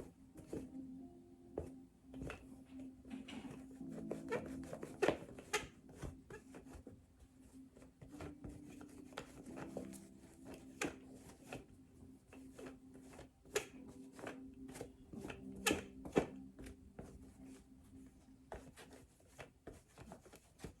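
Irregular clicks, taps and rubbing from hands working on something close by, over faint steady background music.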